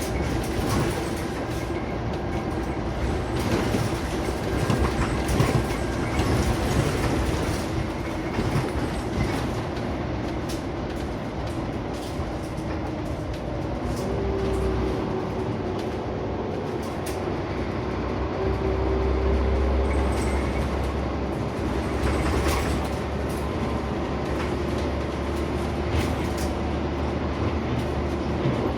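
Cabin sound of a Scania CN94UB OmniCity single-deck bus on the move: the engine running under load, with its note shifting as the bus changes speed, over road rumble. Frequent clicks and rattles from the bus's interior fittings.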